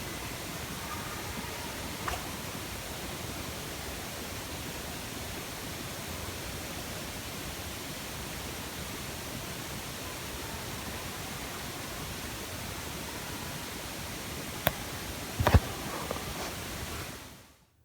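Steady hiss of an outdoor field recording, with two sharp clicks or knocks close together near the end before the recording fades out.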